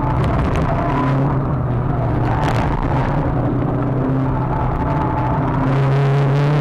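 Inside the cabin of a Renault Clio 182 Trophy, the 2.0-litre four-cylinder engine runs hard on track over road and wind noise. Its note holds fairly steady, then jumps higher near the end.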